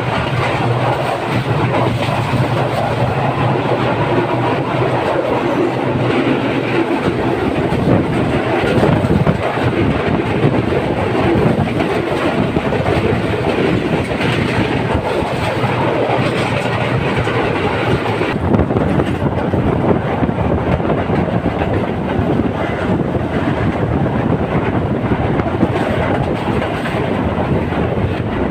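Train running along the track, heard from on board: a steady, loud rumble and clatter of wheels on the rails.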